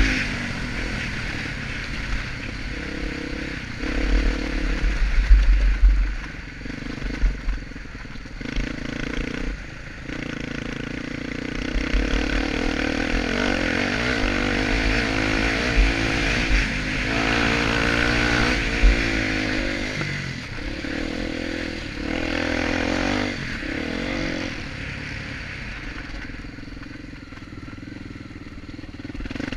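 Honda Tornado enduro motorcycle's single-cylinder four-stroke engine revving up and down as the bike is ridden around a dirt motocross track, with rattles and low rumble from the bumps and wind.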